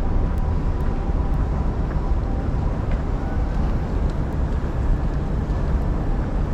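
City street ambience: a steady low rumble, with a faint steady tone above it.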